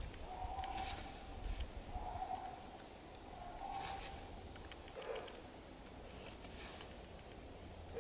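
A bird calling: three even, flat-pitched notes about a second and a half apart, then a shorter, lower call about five seconds in, over a steady low rumble.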